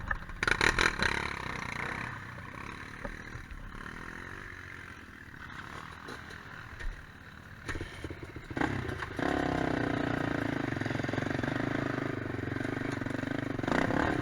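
Quad bike engine running over rough ground, with clattering knocks in the first couple of seconds and the revs rising and falling. From about nine seconds in, the engine holds a steady, louder pitch at higher revs until near the end.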